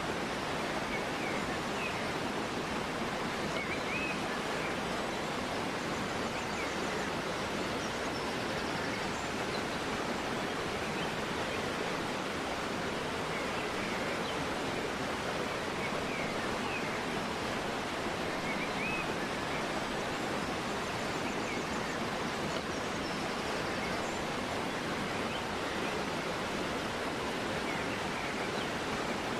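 River water flowing steadily, a constant rushing noise, with faint bird chirps now and then.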